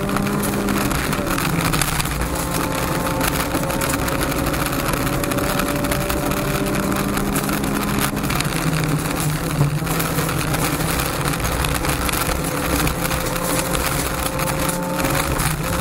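Honda Civic rally car's 1.6-litre four-cylinder engine heard from inside the cabin, pulling hard at speed over steady road and tyre noise. The engine note climbs slowly, then breaks and drops lower about a second in and again about eight seconds in as the driver shifts up.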